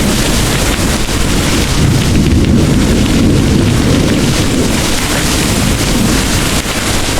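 Heavy rain pouring steadily under a low rolling rumble of thunder that swells in the middle.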